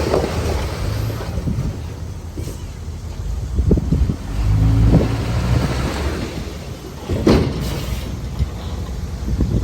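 Heavy diesel earthmoving machinery running, its engine note rising about four to five seconds in, with sharp metallic clanks near four and seven seconds in.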